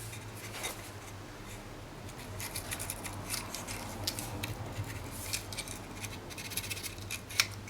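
A tight roll of fine P240 sandpaper being twisted and rubbed over a Dyson vacuum's electrical connector pin. It gives short, light scratching sounds, more of them after about two seconds in, as it scours corrosion and dirt off the pin.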